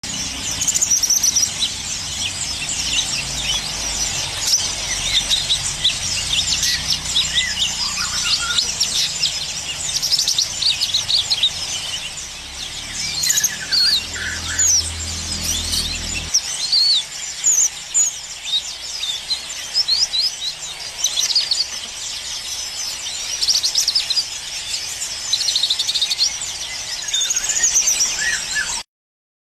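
A cucak kinoi singing a fast, unbroken chatter of high chirps, whistles and trills, the rapid 'trotol' song of a bird in full voice. A low hum runs beneath it for the first half, and the song cuts off abruptly near the end.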